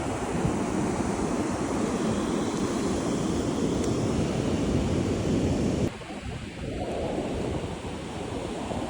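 Ocean surf washing steadily onto a beach, with wind rumbling on the microphone. The sound drops suddenly in level about six seconds in, then carries on more softly.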